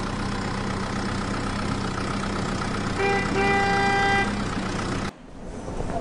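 Steady vehicle engine hum with a horn honking twice about three seconds in, a short toot then a longer one. The sound cuts off suddenly about five seconds in.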